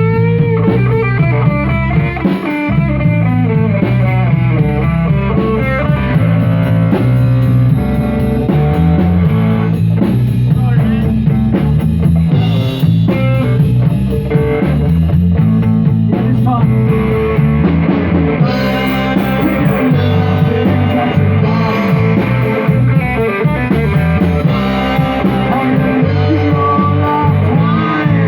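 Live rock band playing a song, with guitar over a drum kit.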